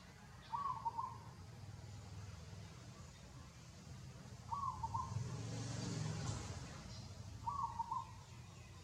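A short animal call of a few quick notes, given three times at even intervals about three and a half seconds apart, over a low background rumble.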